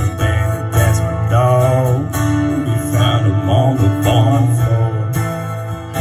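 Live acoustic band music between sung lines: guitar playing over steady low bass notes, with a wavering melody line bending in pitch on top twice.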